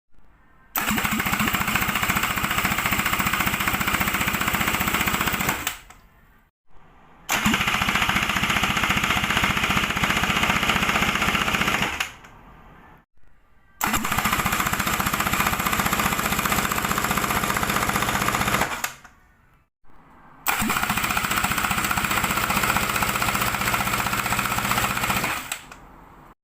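Kawasaki Ultra 300X jet-ski engine, a supercharged four-cylinder, being turned over in four bursts of about five seconds each, with a fast, even pulsing; each burst starts abruptly and winds down over about half a second.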